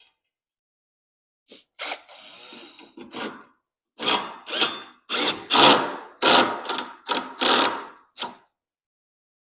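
Power drill driving a screw with a washer into wood, run in about ten short bursts, the motor starting and stopping as the screw is set.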